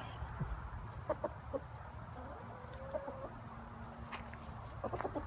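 Free-range chickens clucking, a few short scattered clucks.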